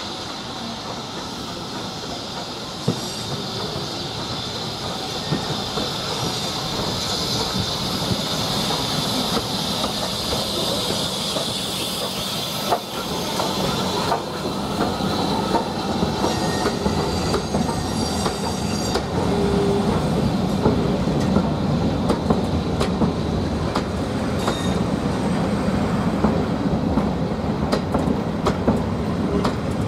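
A train rolling along the track, its wheels squealing high on the rails and clicking over rail joints, growing steadily louder.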